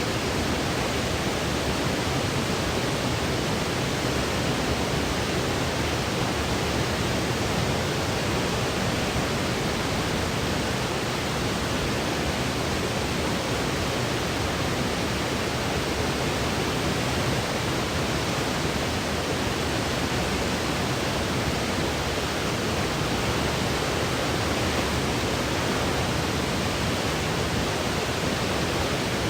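Steady electronic noise from a sleep-aid noise track: an even, unchanging hiss with a deep, full low end.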